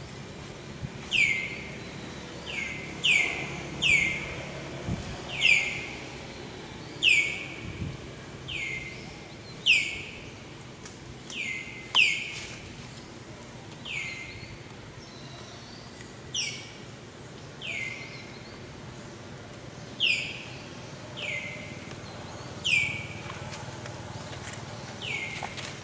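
A bird calling over and over, each call a short high note that sweeps downward, about one every second or two.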